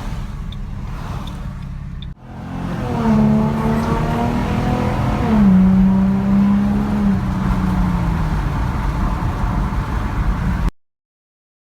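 Car engine heard from inside the cabin, accelerating: its pitch climbs, drops at a gear change about five seconds in, then holds steady at cruising speed over road noise. The sound breaks off briefly about two seconds in and cuts out completely near the end.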